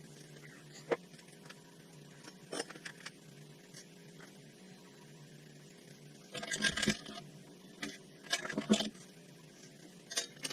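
Metal tools and parts being handled: scattered clinks and clicks, with two busier bursts of clattering a little after halfway and toward the end.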